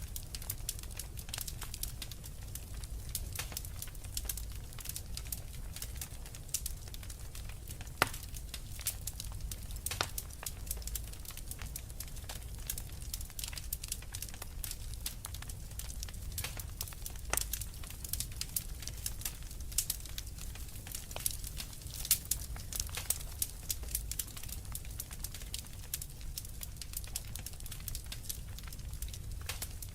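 Wood fire crackling, with frequent sharp pops and snaps and a louder pop about eight seconds in, over a low steady rumble.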